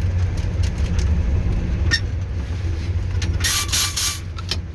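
YaMZ-236 V6 diesel engine of a TU6A narrow-gauge locomotive running steadily as the locomotive brakes on icy rails. A short burst of compressed-air hiss from the brakes comes about three and a half seconds in.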